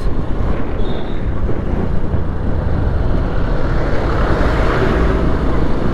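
Steady wind rumble on the microphone mixed with road and engine noise from a Honda Shine 125cc motorcycle riding along at speed.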